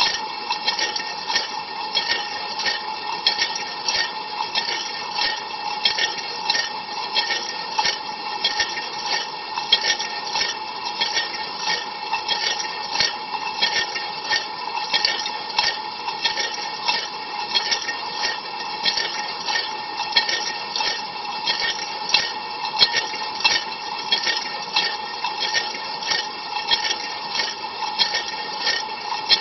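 Water spraying inside a dishwasher during a cold rinse, heard from within the tub: a steady rush with constant fine spatter as the spray hits the inner walls and racks.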